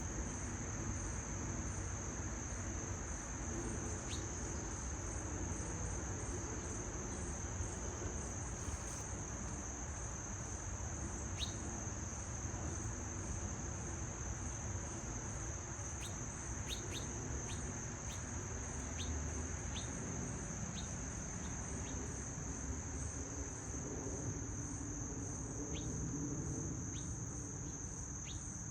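A steady, unbroken high-pitched chorus of crickets, with short bird chirps scattered through it, most of them in the second half.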